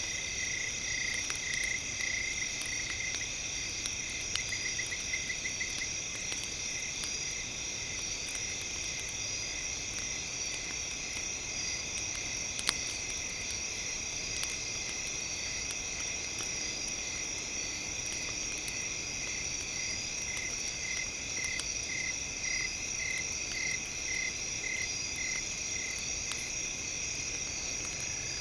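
Campfire ambience: scattered sharp crackles and pops over a steady layer of high-pitched tones, with runs of rapid chirping in the first few seconds and again near the end.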